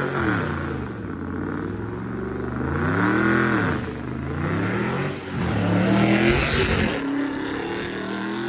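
A car engine revved hard in repeated surges, its pitch climbing steeply and dropping back about three times while the car slides.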